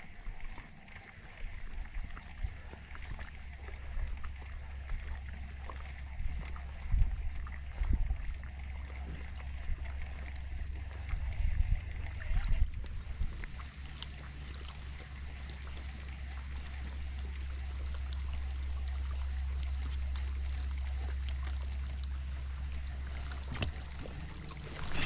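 Sounds on a small fishing boat on the water: a steady low hum with occasional knocks and faint water sounds.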